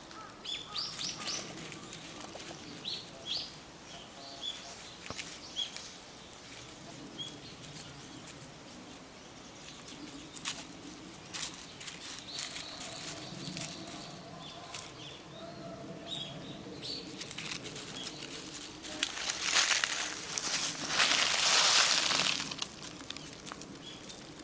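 Small birds chirping, with short high calls scattered throughout. Near the end come two louder bursts of rustling noise.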